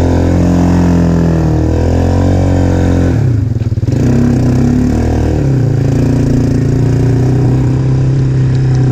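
Yamaha Moto-4 225 ATV's single-cylinder four-stroke engine running under way. About three seconds in the revs fall sharply as the throttle is let off, then pick back up and hold steady.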